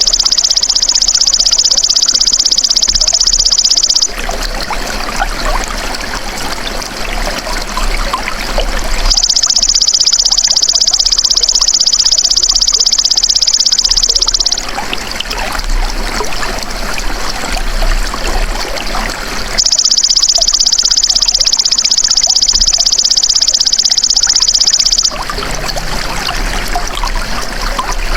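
Belalang emas insect calling in long, high, steady buzzes of about five seconds each: one at the start, one about nine seconds in and one about twenty seconds in, each cutting off abruptly. A steady trickle of running water runs beneath.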